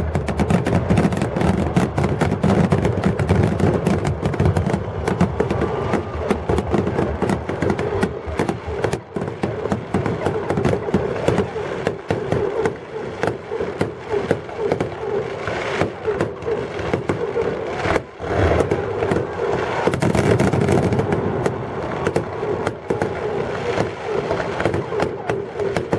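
Fireworks display: a dense, unbroken run of bangs and crackling reports.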